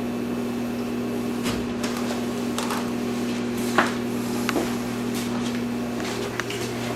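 Steady electric hum of a running geothermal heat pump system, with a few light clicks and taps, the sharpest about four seconds in.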